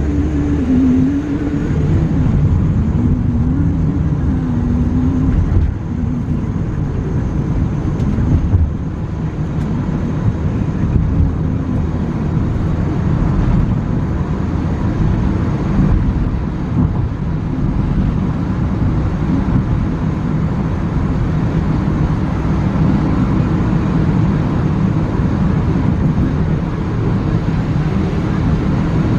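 Inside a moving car's cabin: a steady, low rumble of road and engine noise.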